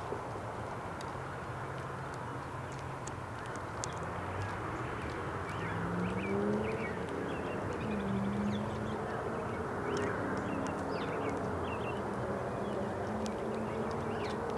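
Small birds at a feeding spot giving short faint chirps and ticks over a steady low rushing background. About five seconds in, a low buzzing hum that wavers in pitch joins and stays.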